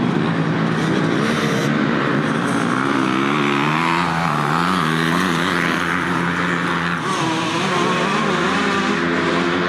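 Several motocross bike engines racing on the track, revving up and down in pitch as the riders work the throttle and shift.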